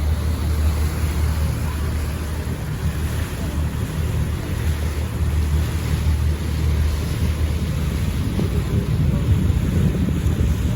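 Tour boat's engine running as a steady low rumble, with an even rushing noise over it.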